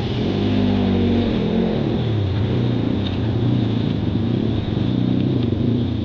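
Kawasaki KLX140 dirt bike's single-cylinder four-stroke engine running, its revs rising and falling a little.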